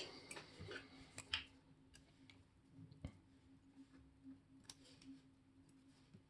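Faint, irregular clicks and taps of small metal watchmaker's tools on the parts of a watch movement, mostly in the first second and a half, over a low steady hum.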